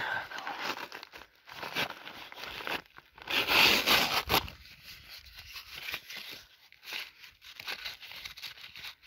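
A small wood fire catching inside the hollow channel of a concrete slab, with irregular crackling and rustling as fuel is pushed in, and a louder rushing stretch about three and a half seconds in.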